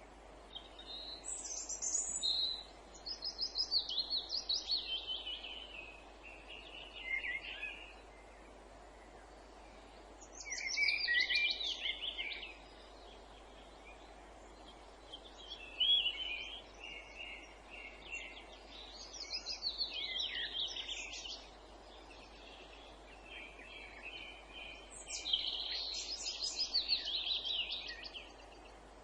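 Songbirds singing: phrases of rapid repeated, trilled notes, each one to three seconds long and often falling in pitch, with pauses of a few seconds between, over a faint steady background hiss.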